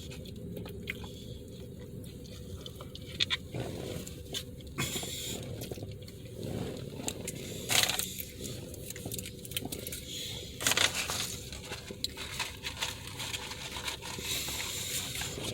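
A person chewing a mouthful of burger close to the microphone, with scattered small clicks and a few louder sharp sounds.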